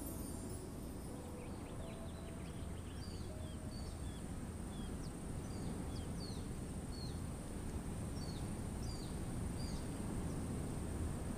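Daytime outdoor ambience: small birds chirping in short, falling chirps, about one or two a second, over a steady low background hiss.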